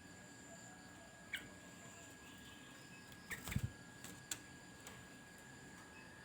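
A sooty-headed bulbul gives a couple of short chirps between quiet stretches, one falling in pitch about a second in. The loudest sound is a brief soft thump with clicks near the middle, and a faint steady high tone runs underneath.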